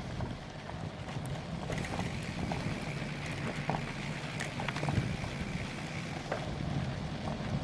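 Wind buffeting the camera's microphone during a bicycle ride over a rough trail, with scattered rattles and clicks from the bike and the mount. A faint steady whine comes in about two seconds in and fades out after about six seconds.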